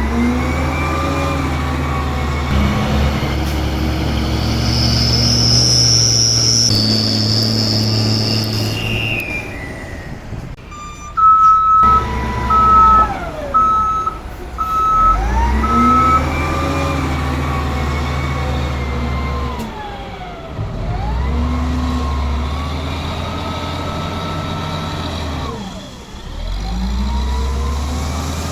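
Diesel dump truck engines revving up and dropping back again and again. About eleven seconds in, a reversing alarm beeps about five times, and a high whine sounds for a few seconds before that.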